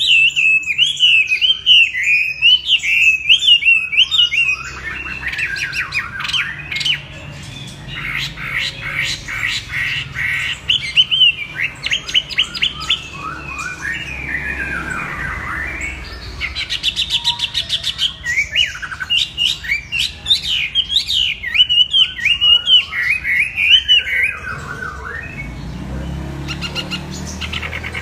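Chinese hwamei singing a long, varied warbling song of rapid whistled phrases and fast trills, with short pauses between runs.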